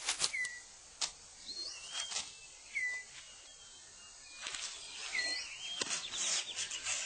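Rainforest birds calling: short, curling whistled notes repeated every second or so, over scattered sharp clicks and rustles of leaves and twigs on the forest floor being cleared away. A fast, high chattering trill starts near the end.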